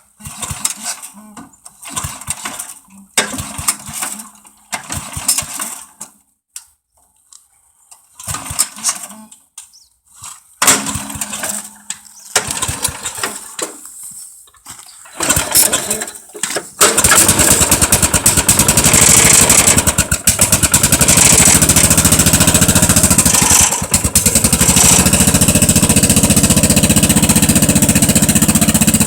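Wheel Horse 857 garden tractor engine cold-started after sitting a month in near-freezing weather: several short cranking bursts with pauses, then it catches about 17 seconds in and keeps running steadily and loud.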